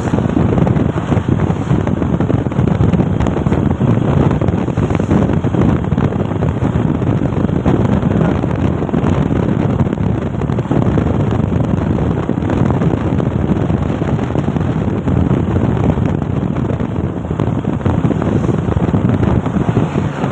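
Truck running on the road: steady engine and road noise with wind buffeting the microphone.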